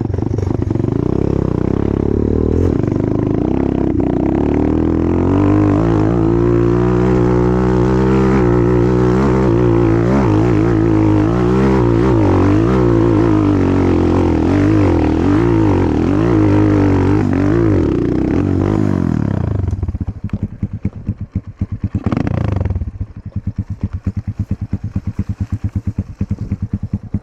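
Enduro motorcycle engine under load, its revs rising and falling continuously as the throttle is worked. About twenty seconds in it drops to a low, pulsing idle, with one short blip of throttle.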